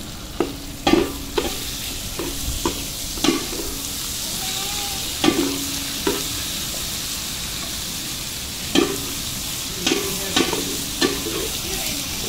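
Onions and raw mutton frying in oil in a large metal pot: a steady sizzle. A metal spatula knocks and scrapes against the pot's side about a dozen times, each knock ringing briefly.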